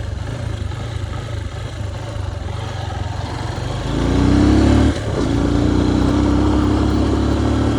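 Motorcycle engine running under way; about four seconds in it revs up and gets louder, dips briefly a second later, then holds steady at the higher revs.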